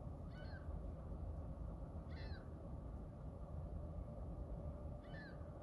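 A bird gives a short, slurred, cat-like call three times, a second and a half to three seconds apart, over a steady low background rumble.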